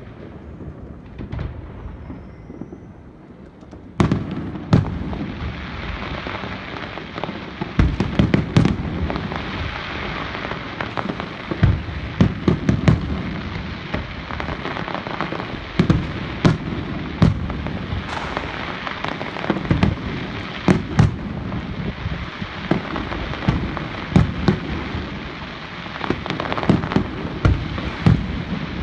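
New Year fireworks display: a few seconds of low wind and background noise, then about four seconds in the shells start going off, a steady crackle with many sharp bangs one after another.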